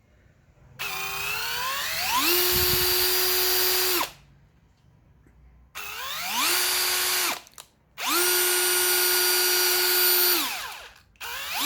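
Bosch-branded brushless cordless drill run four times in short bursts, its trigger squeezed to show the variable speed control. The first run climbs slowly in pitch before holding steady; the others spin up quickly, hold a steady whine for one to two and a half seconds and wind down when the trigger is released.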